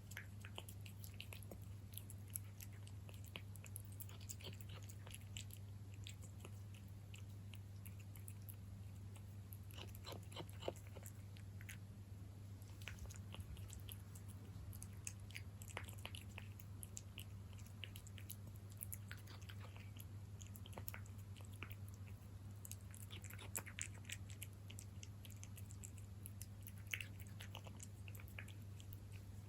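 A cat chewing wet cat food close to the microphone: faint, irregular smacking and clicking bites. A steady low hum runs underneath.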